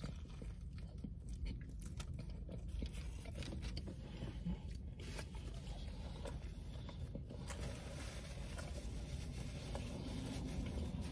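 Faint sounds of a person biting into and chewing a soft flour wrap filled with lettuce, with small crunches and mouth clicks.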